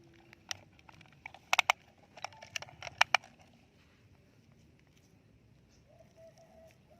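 Sharp clicks and taps of a plastic toy bulldozer being worked through sand and grit, a quick cluster of them in the first three seconds.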